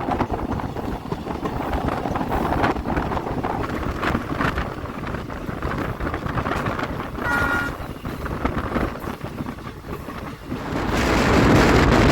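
Passenger train running along the track, a steady rumble and rush with wind buffeting the microphone. A brief two-note tone sounds about seven seconds in, and the rushing noise swells louder near the end.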